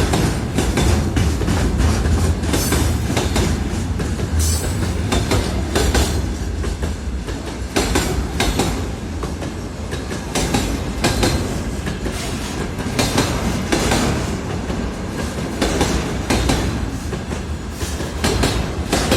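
Freight train wagons rolling past, a steady rumble with wheels clacking over rail joints again and again.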